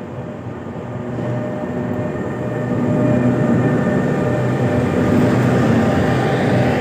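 Diesel train running, its engine giving a steady low drone that grows louder over the first three seconds as the train draws nearer.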